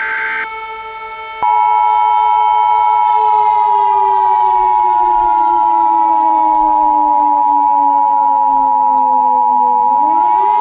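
Emergency Alert System attention tone, a loud steady tone that starts about a second and a half in, over a civil defense warning siren. The siren slowly falls in pitch from about three seconds in and winds back up near the end. A short buzzy burst sits at the very start.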